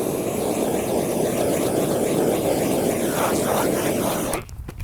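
Propane torch burning with a steady, even rushing noise that cuts off near the end.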